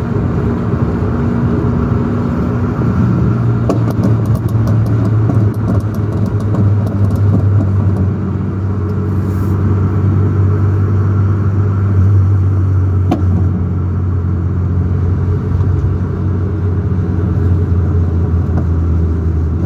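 Sports car engine running steadily at idle with a loud rattle. A quick run of sharp pops comes about four seconds in, and a single pop comes later.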